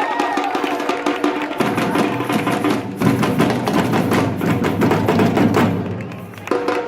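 Batucada samba percussion group playing a dense, fast rhythm. Deep drums join about a second and a half in, are at full strength from about three seconds, and ease off near the end.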